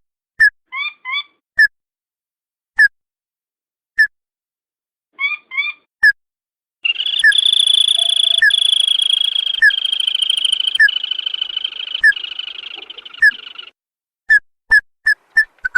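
Recorded lure call of a sintar padi (tikusan) crake. Sharp single notes repeat about once a second, broken by a few quick paired notes. About seven seconds in, a long rattling trill starts and lasts about seven seconds, with the sharp notes still sounding through it.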